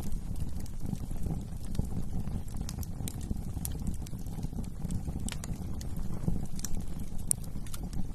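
Wood fire burning in a fireplace: a steady low rumble of flames with scattered sharp crackles and pops of burning wood throughout.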